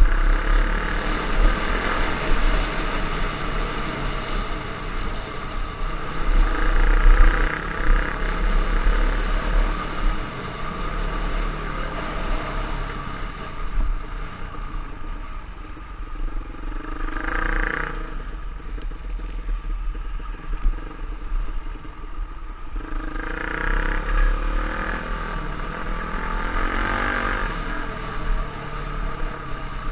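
Off-road trail bike engine running under load as it is ridden, its pitch rising and falling with the throttle several times.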